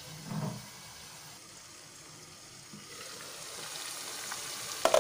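Chicken pieces sizzling softly in a pan as they cook in the water they release, quiet at first and louder and brighter from about three seconds in, once the glass lid is off. A sharp knock near the end.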